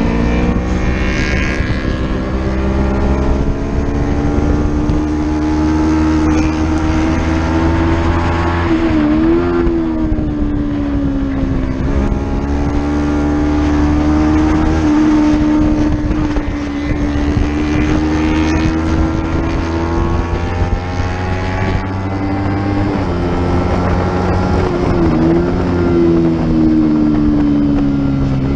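Racing motorcycle engine held at high revs on track, its pitch dipping briefly and climbing back about a third of the way in and again near the end, with wind rush over it.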